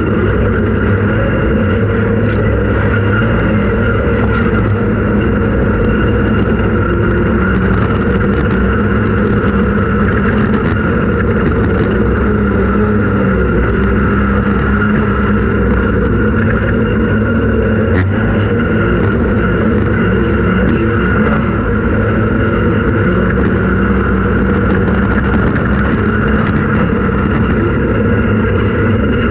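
Off-road race vehicle's engine running steadily under sustained load, at a near-constant pitch, with no clear revving up or down.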